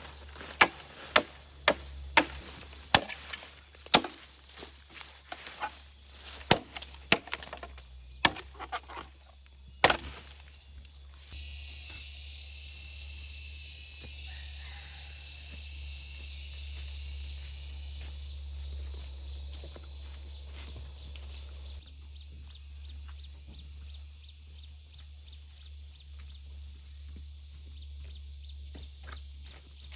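Wood being chopped: about a dozen sharp strikes, roughly one a second, over the first ten seconds, then they stop. Insects trill steadily throughout, louder and shriller for a stretch after the chopping ends.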